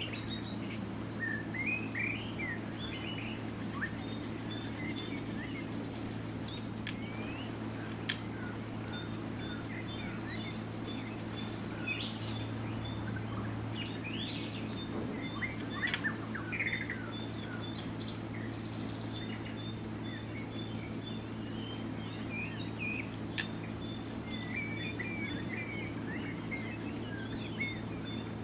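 Several birds chirping and singing in short, varied calls, with a high short note repeating evenly, over a steady low hum. There are a few sharp clicks.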